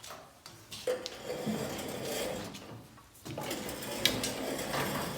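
Rustling and clattering handling sounds in two stretches, each opening with a sharp click, about a second in and about four seconds in.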